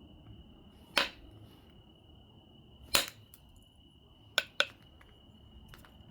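Obsidian being knapped: four sharp, ringing clicks as flakes come off the biface, the last two in quick succession, then a faint fifth click.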